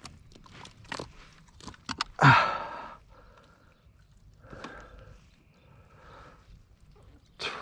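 A man breathing hard, with a loud strained exhale about two seconds in and softer breaths after it, among light clicks and knocks of handling.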